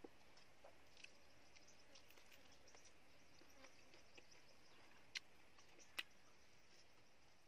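Near silence with faint eating sounds: a few sharp mouth clicks and smacks while chewing fried fish, the two loudest about five and six seconds in.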